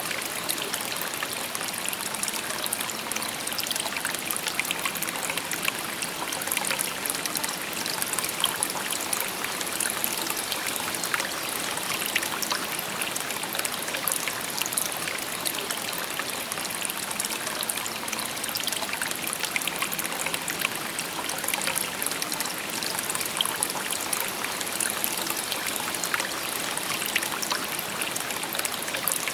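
Shallow river babbling steadily over stones, a continuous hiss of water with many small splashes and trickles.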